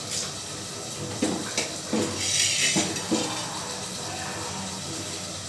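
Dishes and utensils clinking and knocking together about five times, with a brief hiss partway through.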